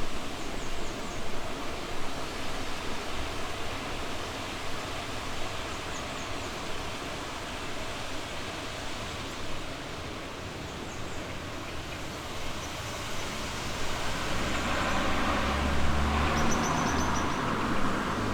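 Steady rush of flowing river water, with brief high bird chirps now and then. About fourteen seconds in, a vehicle's engine hum rises and peaks near the end as it passes.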